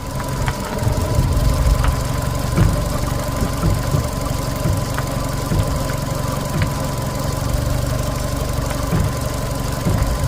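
Fiat 500's engine idling with a steady high tone, while turning the steering brings irregular knocks and clicks from the front strut top mount as it grabs and twitches. The owner thinks the bearings inside the top mount are gone.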